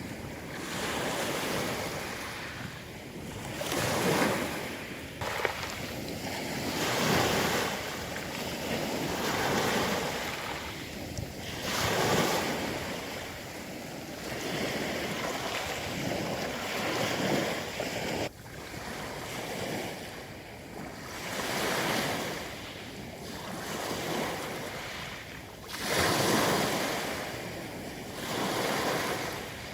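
Sea surf breaking and washing over a pebble shore, the rush of each wave swelling and ebbing every few seconds.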